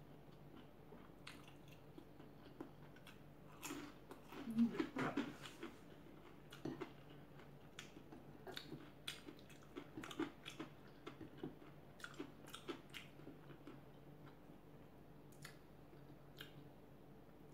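Close-miked eating sounds: a person chewing a mouthful of rice and lechon sisig, with soft wet mouth clicks and smacks scattered throughout. A louder stretch of chewing comes about four to five seconds in.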